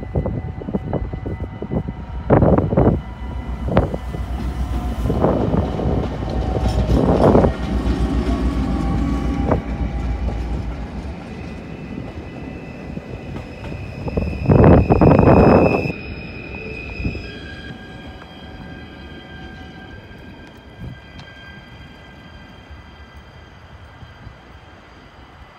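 Electric passenger train passing over a level crossing: a low rumble with repeated sharp wheel knocks over the rail joints and the crossing, loudest in the first half with a surge about 15 seconds in. It then dies away to a faint steady sound.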